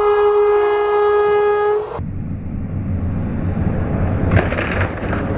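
Train horn sounding one steady chord for about two seconds. It breaks off into the low rumble of the locomotive rolling past close by on the rail, with a single sharp crack about four seconds in.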